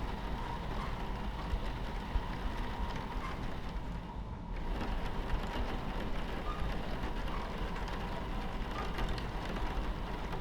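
Steady low rumble of a train running on its tracks, heard from inside the carriage, under an even hiss of rain on the window. The rain hiss briefly thins out about four seconds in.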